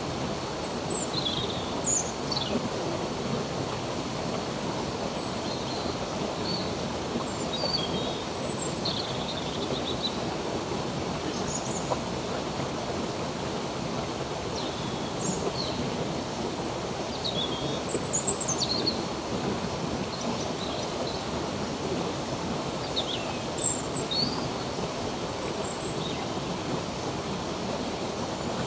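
Running water flowing steadily, with birds chirping here and there: short, high calls every second or two.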